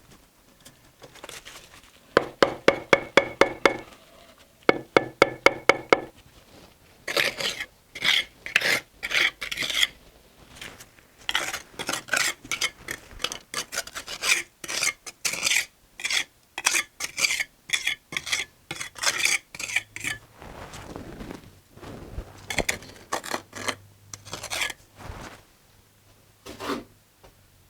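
Steel mason's trowel scraping and working mortar in short, repeated strokes, one or two a second. Early on there are two quick runs of ringing metallic clinks.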